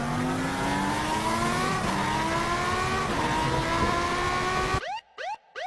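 A car engine accelerating hard, its pitch climbing and dropping sharply twice as it shifts up through the gears. It cuts off suddenly near the end, followed by a few short rising chirps.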